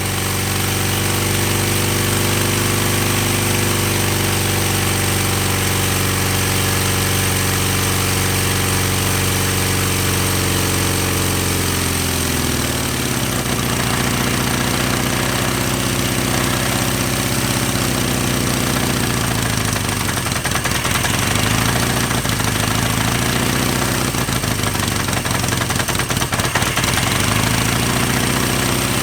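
1975 Honda CB550's inline-four engine running at a steady fast idle. About twelve seconds in, the revs drop to a lower, uneven idle. The owner says it sounds funny and suspects the head gasket is starting to go.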